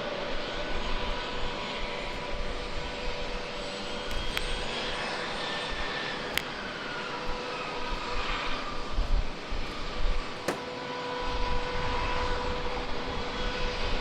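Jet airliner engines running: a steady rush with a thin whine, one tone sliding down in pitch about halfway through.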